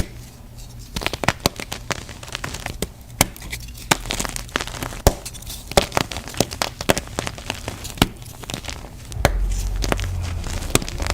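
Gym chalk being crushed, an irregular run of sharp crunches and crackles. A steady low rumble joins about nine seconds in.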